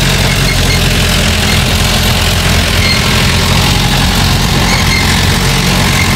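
Game-drive vehicle's engine running steadily, an even low hum with no change in pitch.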